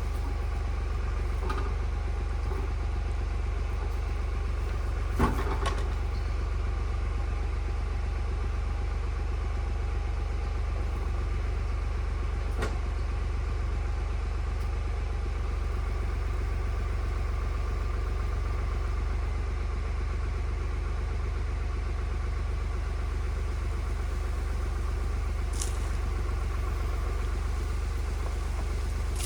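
Tractor engine running steadily with a low drone. A sharp knock comes about five seconds in, and fainter clicks follow later.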